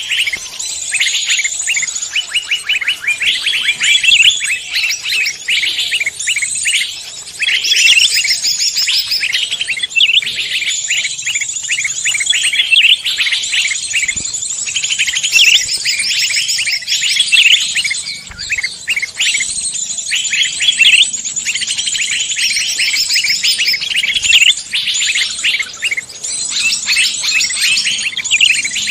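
A dense chorus of songbirds chirping and singing in rapid, high-pitched phrases, without let-up.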